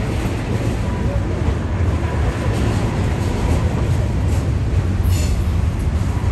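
Freight train cars rolling past on a curve: a steady low rumble of steel wheels on rail, with a brief high-pitched wheel squeal about five seconds in.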